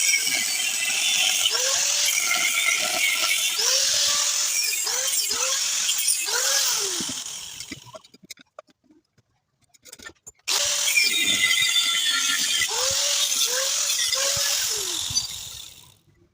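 Angle grinder cutting into a steel exhaust pipe, its motor pitch dipping and recovering as the disc bites. It winds down about seven seconds in, starts again about ten seconds in, and winds down again near the end.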